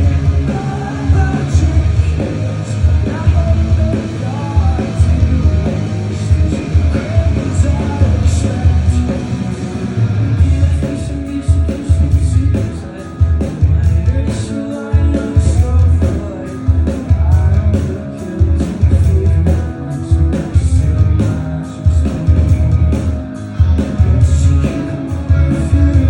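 A rock band playing live, with distorted guitars, bass, drums and singing. The cymbal hits become denser about ten seconds in.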